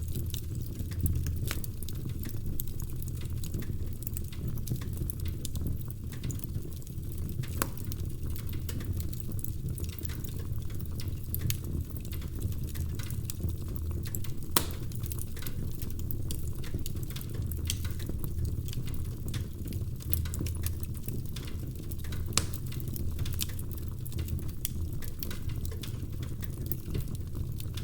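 Wood fire crackling in a fireplace: a steady low rumble from the burning logs with frequent irregular snaps and pops. A few sharper, louder pops stand out, one about a second in, one midway and one a little after two-thirds of the way through.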